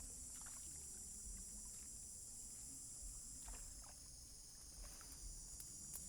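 Steady high-pitched chirring of an insect chorus, likely crickets, with a few faint knocks and a low rumble underneath.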